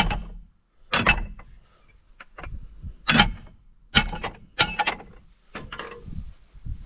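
Irregular metal clanks and knocks, about five of them, some with a short ring: tractor three-point hitch parts and pins being worked loose to unhook a bush hog.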